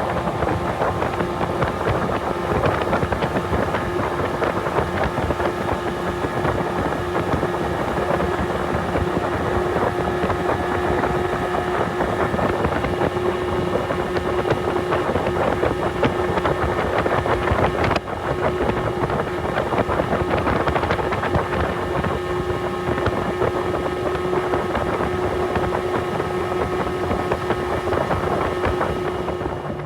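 Mercury 30 hp outboard motor running steadily under way, its engine note held at one pitch, with wind buffeting the microphone and water rushing past the hull. A brief break comes about halfway.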